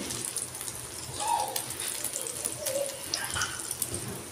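Chicken pieces sizzling in oil in a frying pan, a steady hiss with many small crackles.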